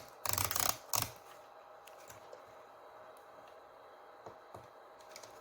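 Two short bursts of rapid, keyboard-like clicking in the first second, then a faint steady hum.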